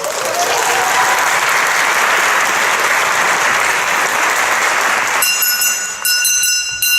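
Audience applauding. The clapping ends about five seconds in, and a steady high ringing tone takes over.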